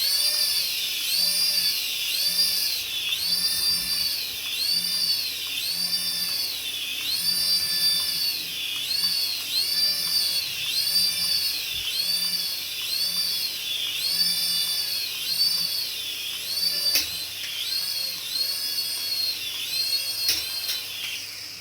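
Battery-operated toy's electronic sound effect: a high, warbling whine that rises and falls in a steady repeating pattern about one and a half times a second, with a couple of faint clicks near the end.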